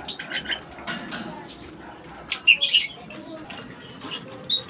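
Pet lovebirds and a cockatiel chirping: short, sharp high chirps, a few just after the start and a louder cluster about two and a half seconds in.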